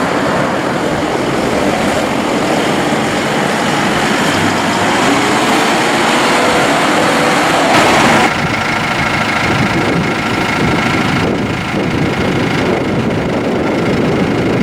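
New Holland T4.75's four-cylinder turbo diesel engine running, loud and steady, with a tone that rises and holds for a few seconds midway and an abrupt change in the sound just past halfway.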